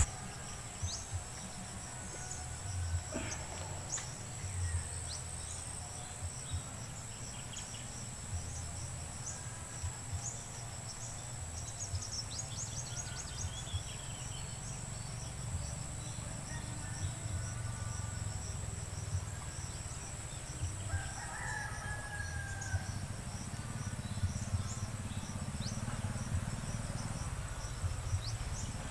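Outdoor ambience of insects calling in a steady high drone, with scattered short bird chirps and a longer bird call about two-thirds of the way through, over a low rumble.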